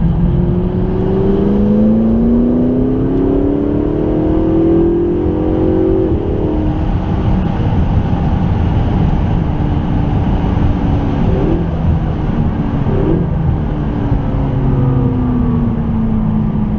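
McLaren 650S's twin-turbo V8 accelerating, its pitch climbing for about six seconds, then holding steady and easing down near the end, under a constant rushing road and wind noise on a wet track.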